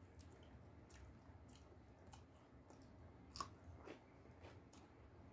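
Faint chewing and soft wet mouth clicks of people eating a meal with their hands, the sharpest click a little past three seconds in.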